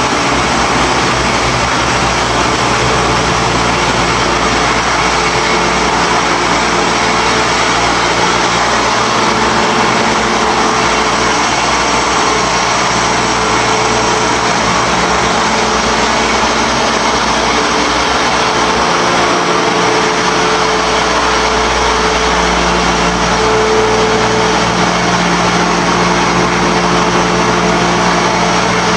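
Puffed rice snack extrusion line running: a loud, steady machine noise with constant motor hum tones.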